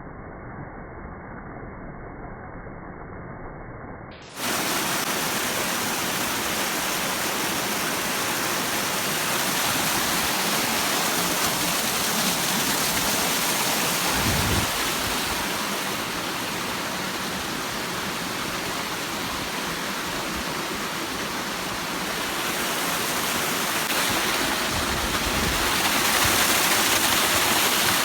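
Waterfall water rushing, a loud and steady hiss that cuts in abruptly about four seconds in. Before that there is a quieter, muffled background noise.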